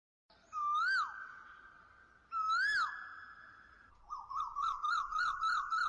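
Whistled bird-call sound effect. Two calls, each a held note that swoops up and then drops away, are followed by a quick warbling trill of about six wobbles a second.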